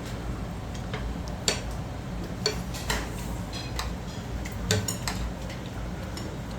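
Eating utensils clicking and clinking against bowls and dishes at a meal table: scattered light clicks at uneven intervals, over a low steady hum.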